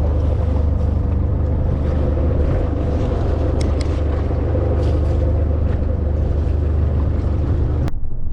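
Boat engine running at a steady drone, with a couple of faint ticks in the middle. Near the end the sound cuts abruptly to a duller hum.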